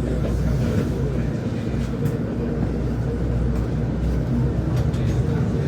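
A motor vehicle's engine running with a steady low rumble, with a few faint clicks.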